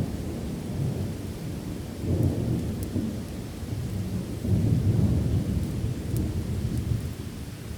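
Rolling thunder rumbling low over steady rain, swelling about two seconds in and again around the middle, with a few faint high ticks.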